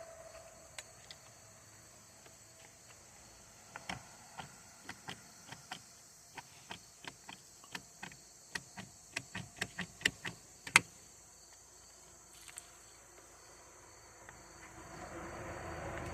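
A run of light, irregular clicks and taps from hands and tools working on a small chainsaw, coming closer together for a few seconds, with one sharper click near the middle. A steady hum fades at the start and another slowly builds near the end.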